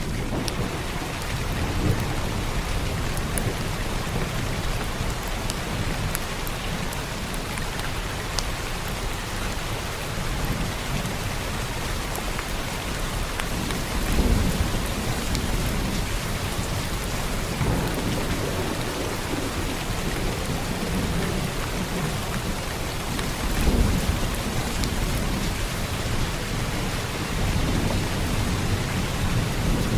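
Heavy rain falling steadily, with low rumbles of thunder swelling about halfway through and again near the end.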